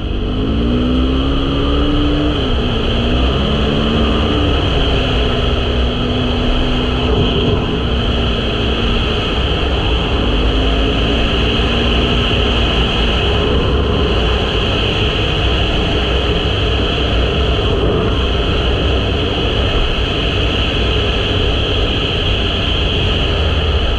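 KTM 500 EXC-F's single-cylinder four-stroke engine running under way, its note rising and dipping a few times in the first dozen seconds as the bike accelerates and shifts, then holding steady at cruise. A heavy, steady wind rumble on the microphone runs underneath.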